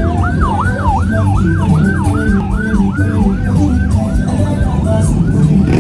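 Electronic siren in a fast yelp pattern, its pitch sweeping up and down about three times a second, over low engine noise.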